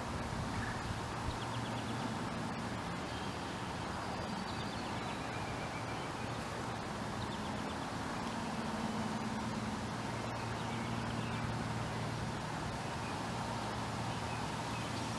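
Steady low mechanical hum, like distant traffic or an engine, with a few faint high bird chirps scattered through it.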